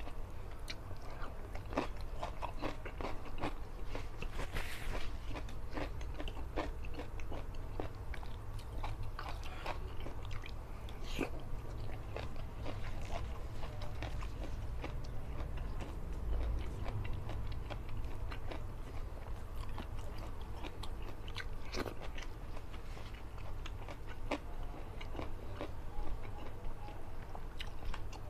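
Close-miked chewing and mouth sounds of a man eating fish head in gulai curry with rice by hand: many short wet clicks and smacks, over a steady low hum.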